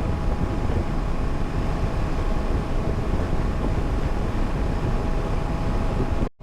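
Motorcycle riding along, heard through an in-helmet microphone: a steady engine and road rumble under a constant rush of wind. The sound cuts out for a split second near the end.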